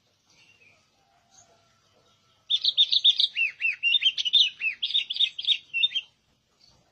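Sooty-headed bulbul (kutilang) singing: faint chirps, then about two and a half seconds in a loud run of quick, repeated whistled notes lasting about three and a half seconds.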